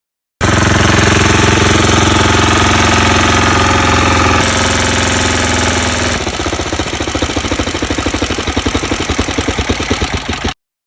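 Small engine of a homemade scrap-metal motorcycle running, steady and fast for about the first six seconds, then dropping to a slower, uneven chugging with separate firing pulses.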